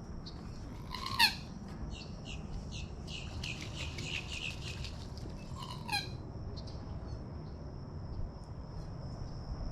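Birds calling: two loud, harsh squawks, each falling in pitch, about five seconds apart, with a quick run of chattering notes between them.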